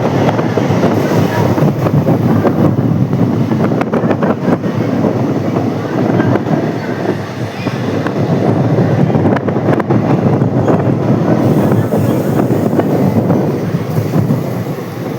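A train running on the rails: a loud, steady rumble with dense rattling clicks.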